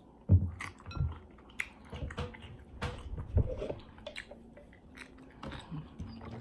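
Close-miked chewing and biting of food, with irregular wet clicks and crunches and an occasional soft clink of utensil or dish.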